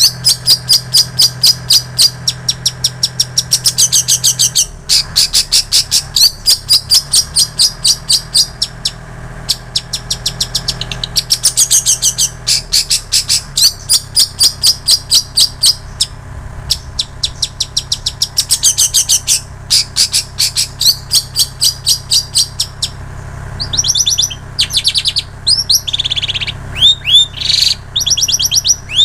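Long-tailed shrike (cendet) singing mimicked songs, in fast runs of sharp repeated high notes, several a second, like a bar-winged prinia's call. From a little past the middle it switches to more varied chirps with rising notes. A faint steady low hum lies underneath.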